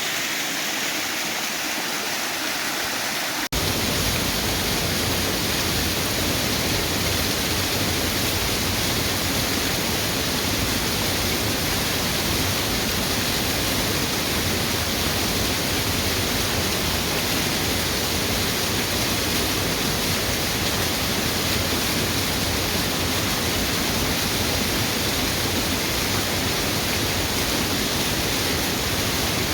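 Waterfall, a steady rush of falling water. About three and a half seconds in it cuts abruptly to a fuller, deeper rush that holds steady.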